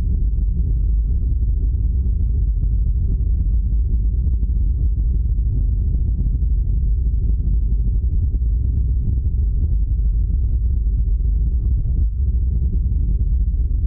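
Suzuki Every DA64V 4WD van on the move, with a steady, loud low droning rumble: the 'go-go' abnormal noise from the van's running gear that is being traced in its suspension.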